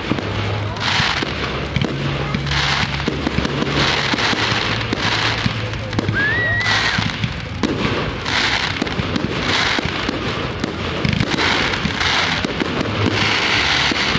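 Aerial fireworks bursting overhead in a rapid series, a burst about every second or so, crackling and popping.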